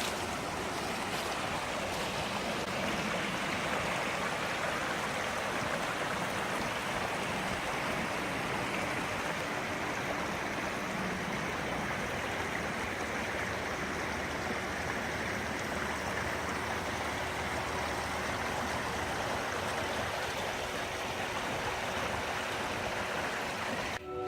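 Steady rush of running water from a stream, an even hiss with no change in level.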